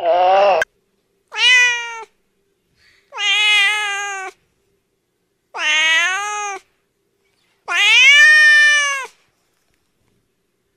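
A domestic cat meowing four times, long drawn-out meows about two seconds apart that rise and then fall in pitch. At the very start a short low-pitched call cuts off abruptly.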